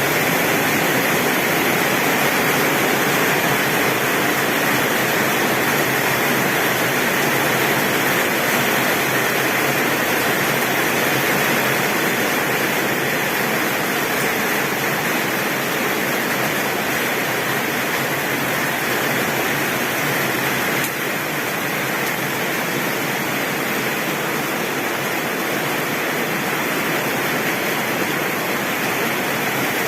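Torrential rain pouring steadily on a tin roof, a dense, even hiss without thunder.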